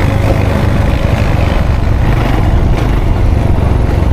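Quad bike engine running steadily while riding.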